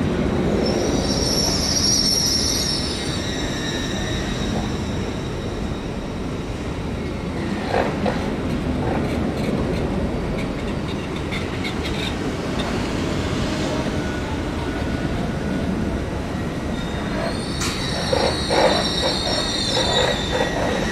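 LNER electric intercity train moving slowly along the platform, its wheels rumbling steadily on the rails. High wheel squeal rings out near the start and again near the end, with a run of clicks in the middle as the wheels cross rail joints.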